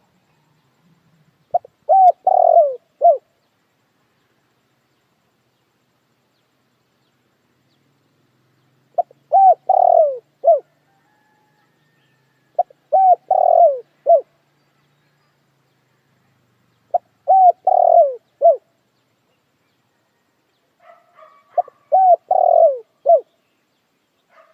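Spotted dove cooing: five phrases of a few coos each, separated by silences of several seconds. Fainter calls come in just before the last phrase.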